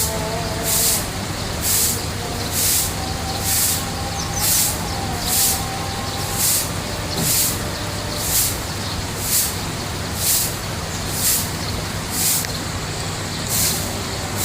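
A steady low mechanical hum with a short burst of hiss repeating about once a second.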